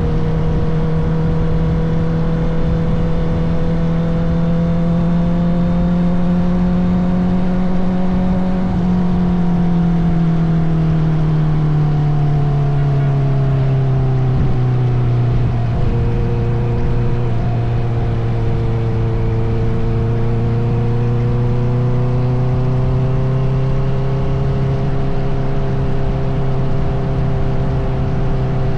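Honda CBR650R inline-four with an Akrapovic titanium exhaust, running steadily under way. About ten seconds in, the engine note slowly drops as the bike eases off, then holds steady at the lower pitch.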